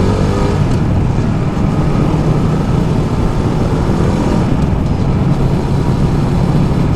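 Ducati Multistrada 1200's L-twin engine running at a steady speed while riding downhill, over an even rush of wind and road noise.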